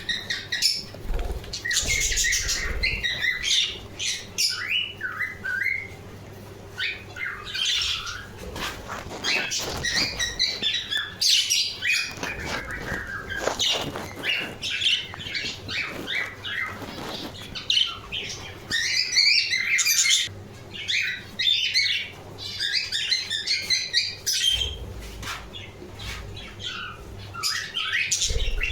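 Budgerigars chattering with fast, continuous chirps and warbles, with a few brief low thuds.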